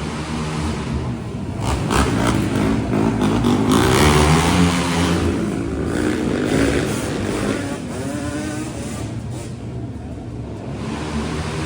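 A vehicle engine revving up and down. It is loudest and highest between about two and seven seconds in, eases off, then builds again near the end.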